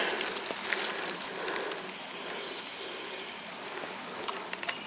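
Outdoor background: an even hiss with scattered light crackles and ticks, and a faint high chirp about two and a half seconds in.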